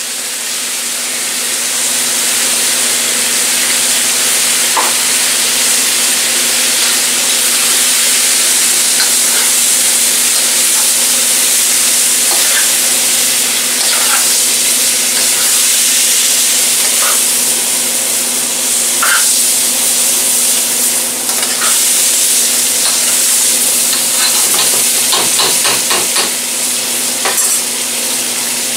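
Chopped vegetables (zucchini, squash, eggplant, peppers) sizzling in hot olive oil in a wide pan over a gas flame as tomato sauce is added and stirred through: a steady frying hiss with a few light clicks and scrapes of the stirring, and a short run of ticks near the end.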